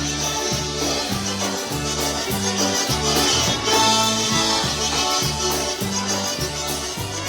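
Live polka band playing, with accordion carrying the melody over a steady oom-pah bass line of alternating low notes.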